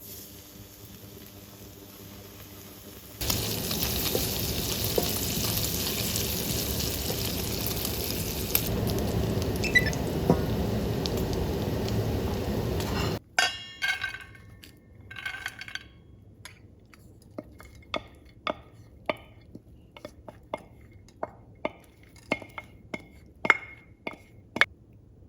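Kitchen food preparation: about ten seconds of a steady rushing noise that cuts off suddenly, then a metal utensil clinking against a dish about a dozen times as something is stirred or mixed.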